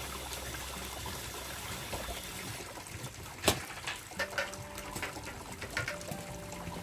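Water trickling in a steady hiss. From about three seconds in, sharp clicks and crackles come through, the loudest about halfway through.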